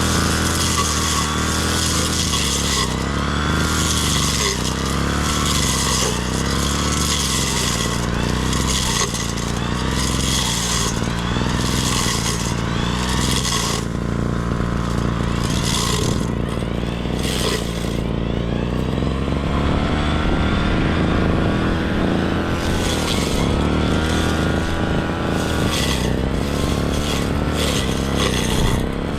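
Brush cutter engine running continuously while cutting grass, its pitch rising and falling with the load. A swishing hiss of the cutting head through the grass comes and goes about once a second, fading in the second half.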